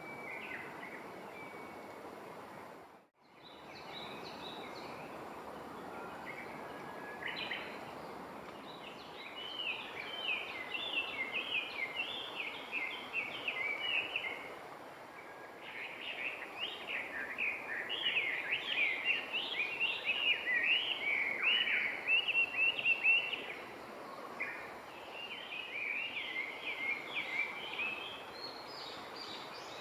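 A songbird singing long runs of quick, jumbled chattering notes in three main bursts, over a steady outdoor background hiss. The sound drops out briefly about three seconds in.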